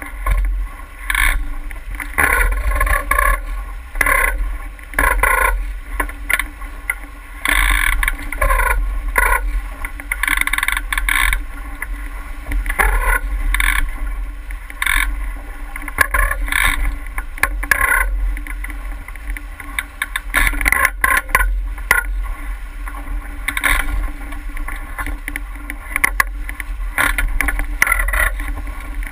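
Sounds aboard a 49er skiff sailing upwind: a steady low rumble of wind on the microphone, with irregular splashes and knocks from the hull and rigging as the boat moves through the water.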